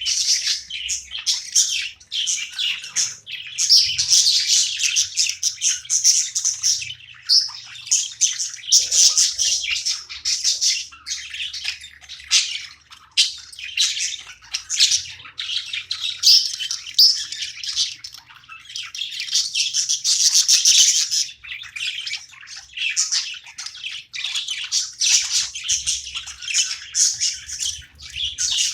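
Pet budgerigars chirping and warbling in continuous chatter.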